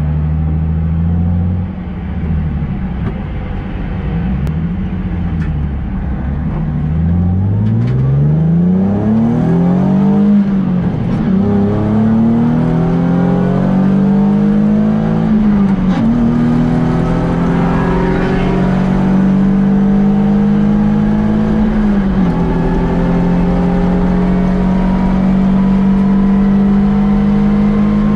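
Nissan 350Z's 3.5-litre V6, with headers, sport catalytic converters and an aftermarket exhaust, heard from inside the car accelerating hard through the gears. The engine note climbs and drops back at upshifts about ten, sixteen and twenty-two seconds in.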